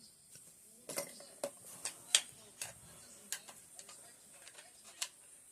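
Scattered sharp metallic clicks and taps at uneven spacing, the loudest a little over two seconds in: hand tools and AK-47 rifle parts being handled during work on the rifle.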